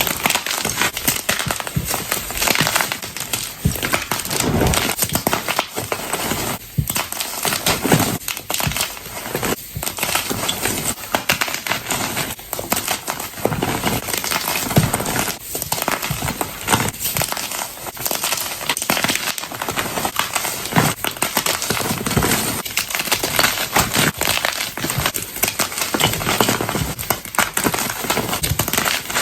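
Soft blocks of gym chalk being crushed, a dense, continuous crunching and crumbling with many small cracks close together.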